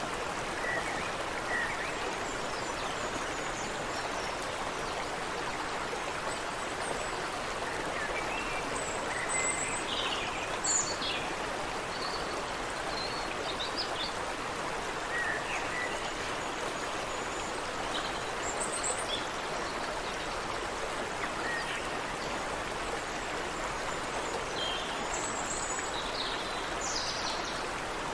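A creek running steadily over rocks, with many short bird chirps and calls scattered over it.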